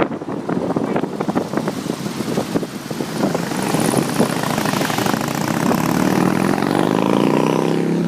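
Car engine under way with wind buffeting the microphone. Over the last few seconds an engine revs up, its pitch rising steadily as it accelerates.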